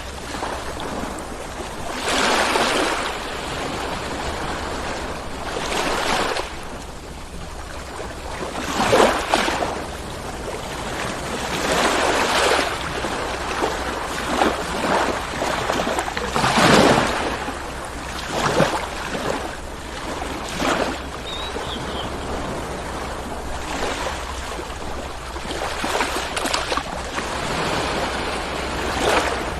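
Ocean surf: waves rolling in and breaking one after another, each surge of washing noise swelling and falling away every few seconds over a steady low rumble.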